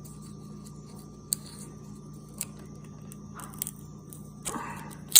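Sharp clicks and brief rustling from a bird of paradise (Strelitzia reginae) seed pod being pried open by hand to get at the seeds, the loudest click near the end, over a faint steady hum.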